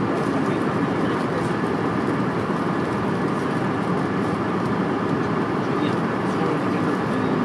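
Steady cabin noise of a passenger aircraft in flight: an even rush of engine and airflow noise that holds at one level throughout.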